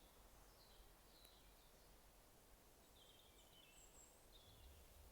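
Near silence with faint, distant bird chirps now and then.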